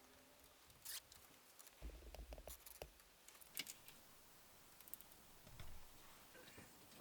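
Faint hand-handling noises against near silence: scattered clicks and small knocks, a short run of them between about two and three seconds in with some low thudding, and one sharper click a little later.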